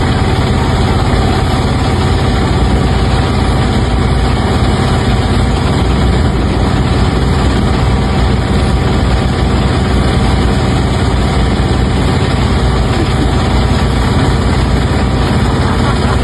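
A large engine running steadily at a constant speed, loud and unchanging, with a deep low rumble and a faint steady hum above it.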